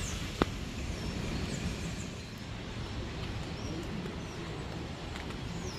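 Several short bird chirps over a steady low rumble of outdoor background noise, with one sharp click about half a second in.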